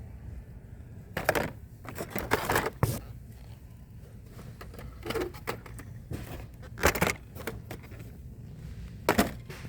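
Carded plastic blister packs of die-cast model cars being handled, with a handful of short clacks and rattles over a steady low background hum.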